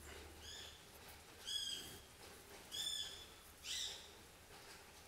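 Faint bird calls: four short, high chirps, each slightly falling, about a second apart.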